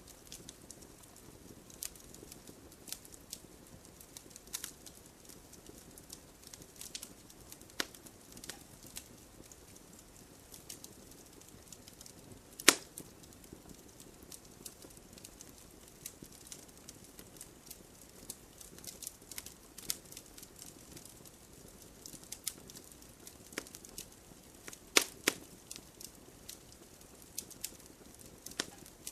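Wood fire crackling in a fireplace: a low steady hiss with irregular sharp snaps and pops, a loud pop about halfway through and a couple more near the end.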